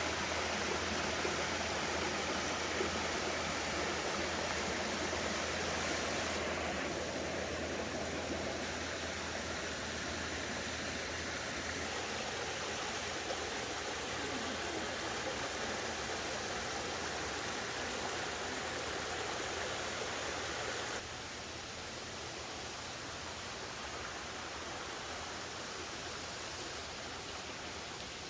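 Clear mountain stream rushing over rocks, a steady broad hiss of water that changes abruptly in level a few times and drops noticeably about two-thirds of the way through.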